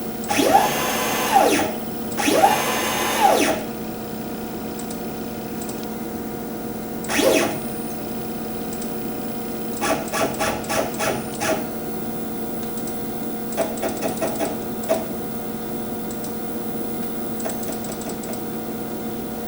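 CNC router's Z-axis drive motor whining as the axis moves down toward zero: two moves whose pitch ramps up, holds and ramps back down, then a shorter move. A couple of quick runs of short ticks follow.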